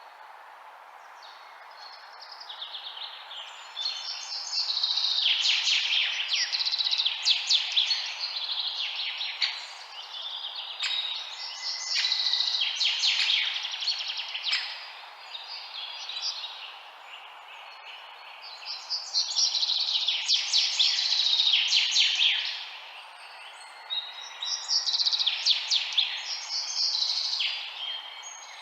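Birds chirping in repeated bouts of rapid, high twittering that rise and fade every few seconds, over a steady hiss.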